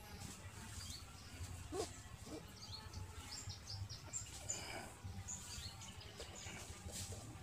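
Small birds chirping: many short, high chirps scattered throughout, over a steady low outdoor hum.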